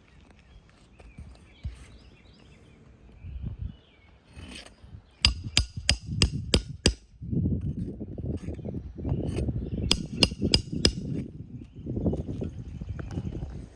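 Shingle hammer striking a roof snake to drive roofing nails in under a lifted shingle: a quick run of about six sharp strikes a little past a third of the way in, then a second run of four or five a few seconds later, with a low rumbling noise around them.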